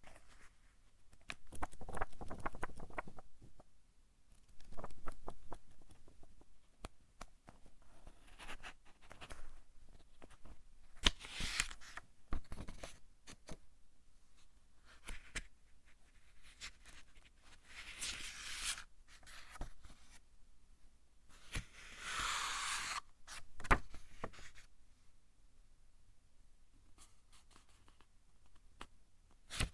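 Pages of a paper book being turned one at a time: about eight separate papery swishes and flicks, spaced a few seconds apart, with a quieter gap near the end.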